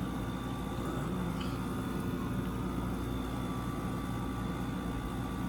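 Window air conditioners running: a steady hum with a few held tones over even fan noise.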